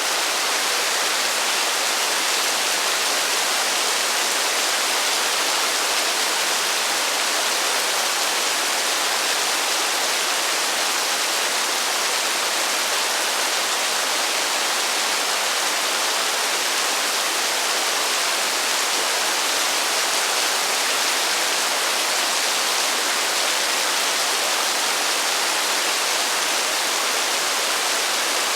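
Heavy rain falling as a steady, even hiss with no thunder and no change in level.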